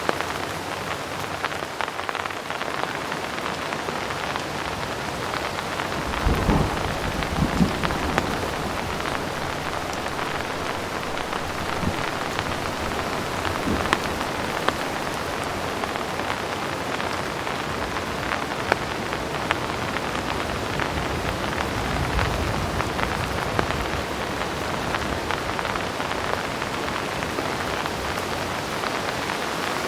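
Heavy rain falling steadily, with a low roll of distant thunder about six seconds in and a fainter rumble around twenty-two seconds.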